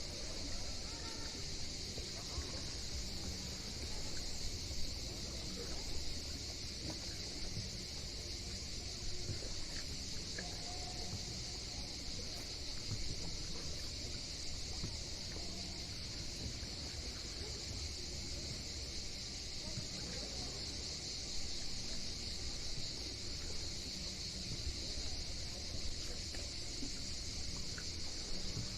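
Outdoor summer ambience on a Greek island: a steady, high-pitched, unbroken buzz like a cicada chorus over a low rumble of wind and sea, with faint voices in the distance.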